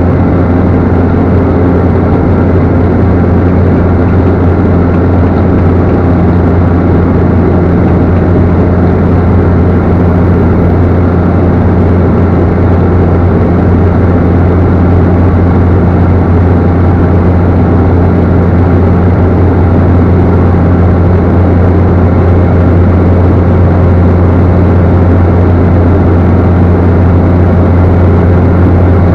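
Cessna Caravan's single turboprop engine and propeller making a loud, steady drone with a deep hum, unchanging throughout.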